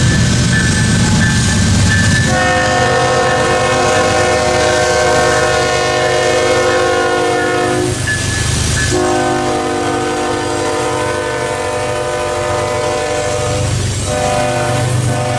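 Diesel locomotive's multi-chime air horn blowing two long blasts, each held about five seconds, and starting a third near the end. A low, steady locomotive rumble runs underneath.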